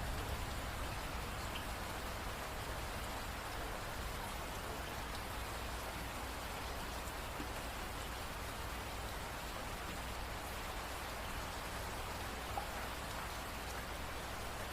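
Steady rain falling on a surface, an even hiss with occasional distinct drop ticks.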